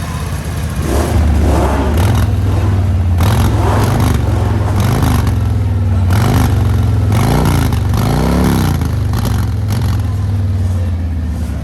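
Harley-Davidson Breakout 114's V-twin engine through a Kesstech exhaust, running at idle and blipped on the throttle about eight times. Each rev rises and falls back to the idle, and the largest comes near the end.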